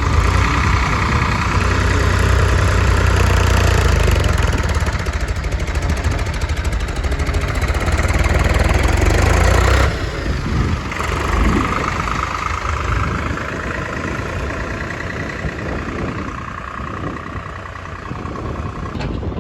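Diesel engines of a tractor and a backhoe loader working while loading sand. They run loud and steady, drop sharply in level about ten seconds in, then keep running more quietly.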